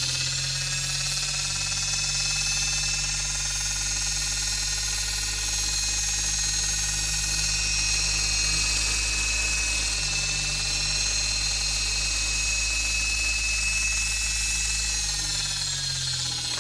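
A motor spinning up, running steadily with a whine, then winding down near the end.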